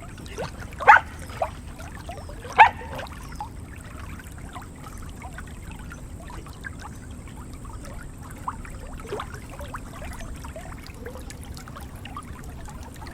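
Water trickling and splashing, with many small drips and two louder sharp sounds about one and two and a half seconds in.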